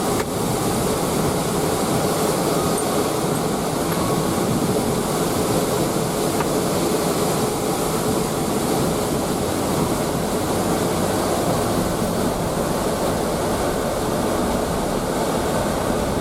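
Hurricane wind blowing hard and steadily, a constant loud rushing noise with no letup.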